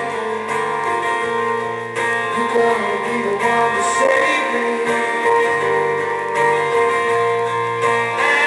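Live band music led by strummed acoustic guitar, an instrumental passage without singing; the chord changes about every one and a half seconds over a steady sustained backing.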